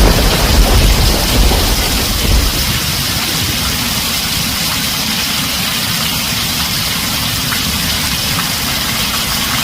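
Heavy rain drumming steadily on a tin roof, with the low rumble of thunder dying away in the first two or three seconds.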